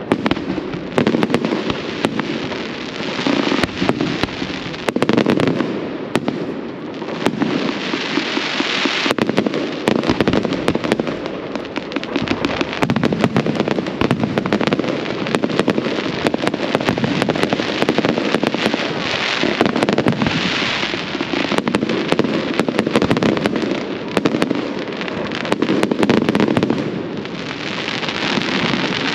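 Fireworks display going off: a dense, unbroken stream of sharp bangs and crackles, many per second, over a steady rumble.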